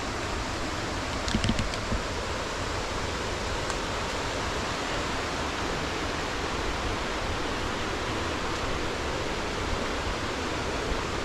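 Steady rush of a small waterfall's falling water, with a few brief clicks about a second and a half in.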